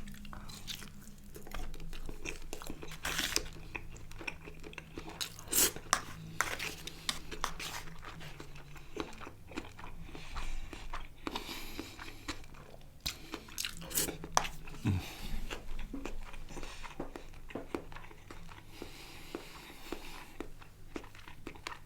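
Close-up eating sounds: a person chewing and biting chicken kebab with rice, in a run of irregular wet clicks and soft crunches.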